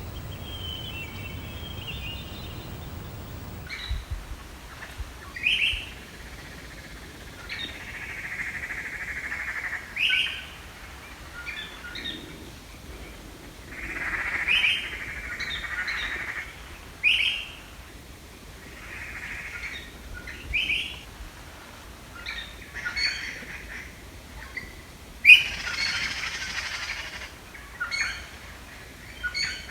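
Songbirds singing and calling: short sharp chirps mixed with longer, buzzy trilling phrases, repeated every second or two.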